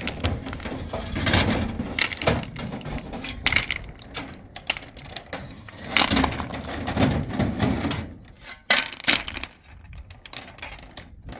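Stones knocking and clattering against each other as they are handled and dropped: irregular sharp clicks and knocks, busiest about six to seven seconds in, with a couple of sharp clicks near nine seconds.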